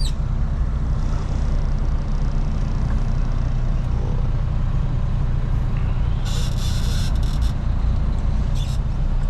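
Semi-truck's diesel engine running with a steady low rumble, heard from inside the cab. A hiss of air comes about six seconds in and lasts just over a second, with a shorter hiss near the end.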